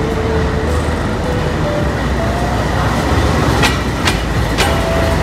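A train running on the track: a steady rumble with a few sharp clacks about three and a half to four and a half seconds in.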